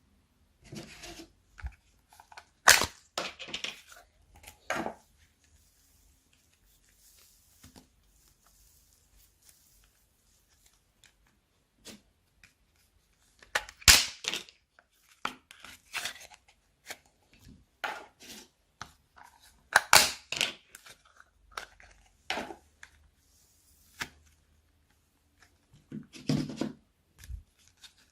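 Slime being worked by hand, in clusters of sharp crackling pops and sticky tearing sounds, with a near-quiet pause of several seconds in the middle.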